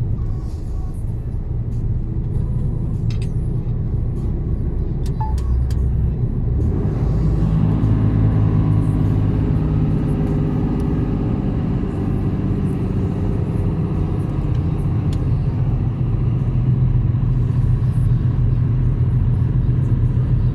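Mercedes-Benz Actros truck's diesel engine running steadily on the road; about seven seconds in, the engine note grows louder and fuller.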